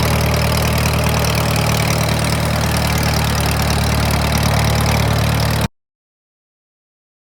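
An engine idling steadily, with a low even run. About five and a half seconds in, the sound cuts off abruptly to dead silence.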